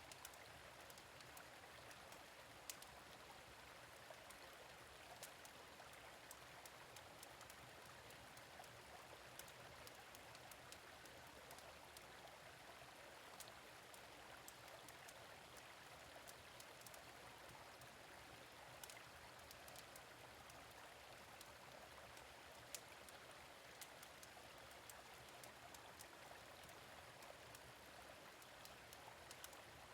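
Faint, steady rush of a gentle stream, with scattered sharp crackles and pops from a wood fire in a fire pit every few seconds.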